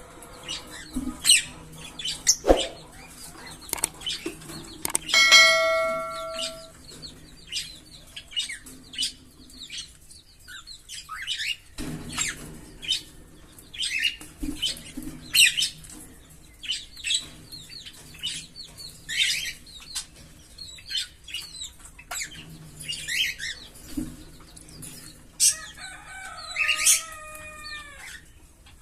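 A pair of Fischer's lovebirds chirping: a rapid, irregular run of short, sharp, high-pitched chirps, with a brief lull about ten seconds in. There is one longer held call about five seconds in, and a few calls falling in pitch near the end.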